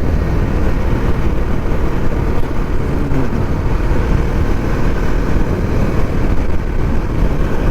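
Wind buffeting the microphone on a moving motorcycle, with the bike running steadily at road speed underneath.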